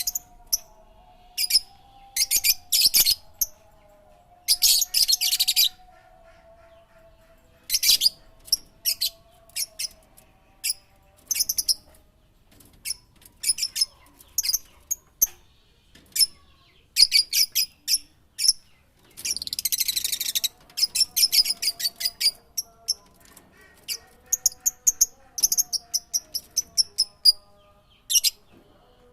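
Bird chirping in quick runs of high-pitched notes, in bursts of a second or so separated by short pauses.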